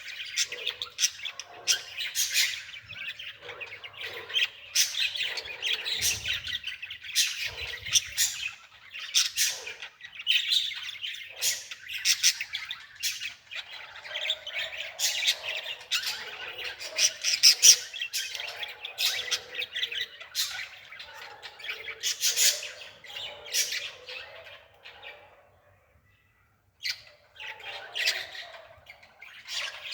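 Birds chirping and squawking in a dense, continuous run of short high calls, broken by a gap of about a second near the end.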